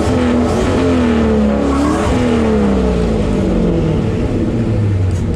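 Car engine revving up and down several times, its pitch climbing and falling over about two seconds each time, over a steady low engine rumble.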